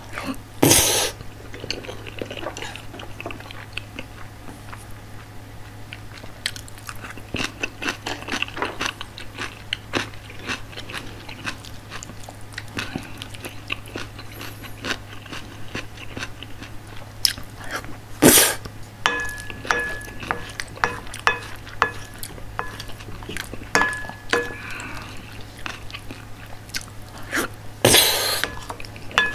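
Close-up chewing of curry rice, with wet mouth clicks throughout. A spoon scrapes across the plate, with three louder sudden sounds about a second in, about halfway and near the end.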